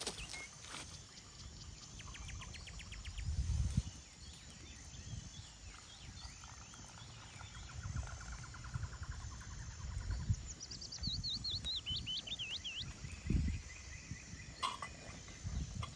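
Songbirds calling in a forest: a quick run of chirps, then a descending trill of repeated notes about ten seconds in. Strong wind buffets the microphone in low rumbling gusts, loudest around four seconds in and again near the end.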